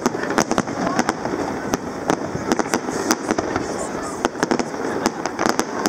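Aerial fireworks shells bursting in a rapid, irregular series of sharp bangs and pops.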